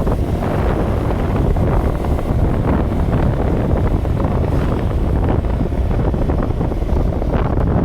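Wind buffeting the microphone: a loud, steady rumble that stays heavy at the bottom, with no distinct tones or knocks.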